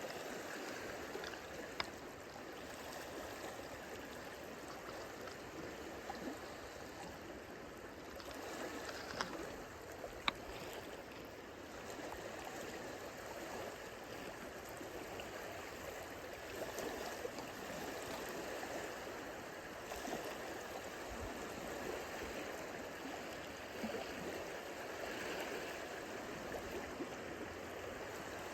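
Small lake waves lapping steadily at the shoreline, a continuous wash of water, with a few sharp clicks about 2, 9 and 10 seconds in.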